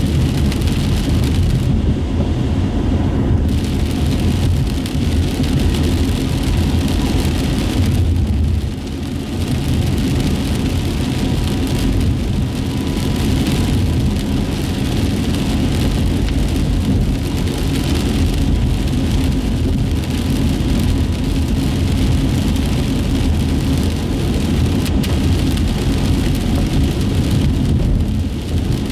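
Steady cabin noise of a car driving on wet city streets: low engine and road rumble with tyres hissing on the wet asphalt.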